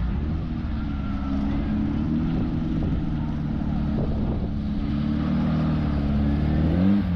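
Car engine idling steadily, then briefly revved near the end, the pitch rising and dropping back.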